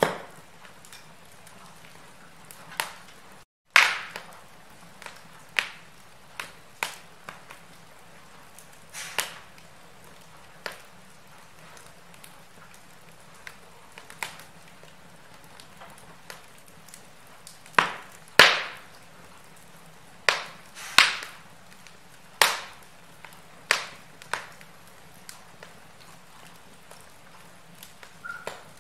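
Wood fire crackling in a fireplace: irregular sharp pops and snaps over a soft steady hiss, with a cluster of louder cracks past the middle. The sound cuts out for a split second about three and a half seconds in.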